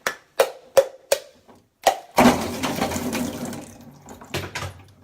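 About six sharp knocks on a hard object in the first two seconds, each with a short ring. Then a burst of rushing liquid sound that fades over a second or two, and one more knock.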